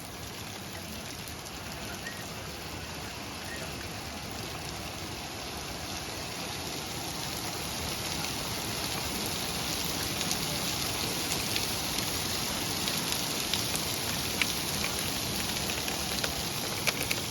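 Heavy rain pouring down, growing heavier over the first half and then steady, with sharp individual taps of big drops striking in the second half.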